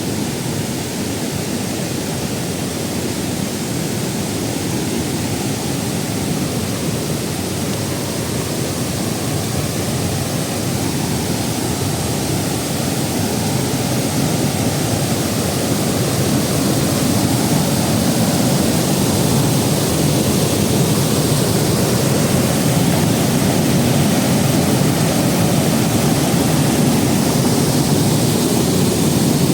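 Waterfall rushing steadily: a deep, even roar of falling water that grows slightly louder in the second half.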